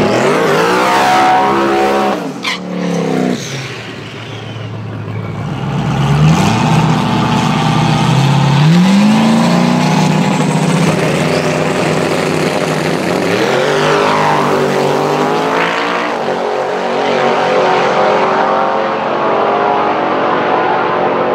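Twin-turbo Ford Coyote 5.0 V8 in a Mustang accelerating hard. The revs climb and fall back several times with the gear changes, drop sharply about three seconds in, and settle into steadier running near the end.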